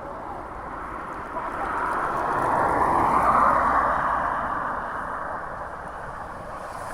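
A road vehicle passing by: tyre and engine noise swells to its loudest about three seconds in, then fades away.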